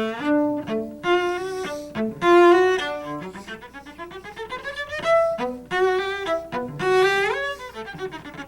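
Solo cello playing a fast staccato passage: runs of quick, short, separated notes between a few longer held notes, the bow nearly still on the string while the notes are articulated rapidly.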